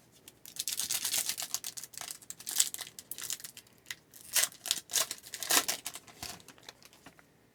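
A hockey card pack's plastic wrapper being torn open and crinkled, with papery rustling and crackling in irregular handfuls that die away about a second before the end.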